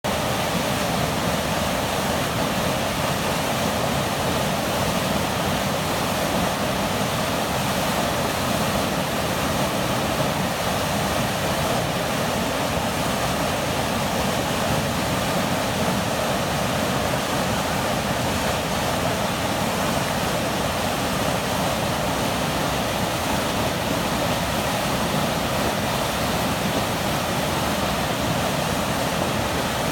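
Steady rushing of water from a sewer overflow flooding a light-rail platform's steps and ramp, an even noise that does not let up.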